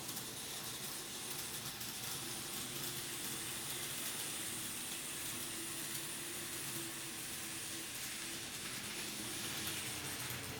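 TOMIX N scale 207 series electric train model running on the layout's track: a steady hiss of small wheels on the rails, with a faint motor whine through the middle.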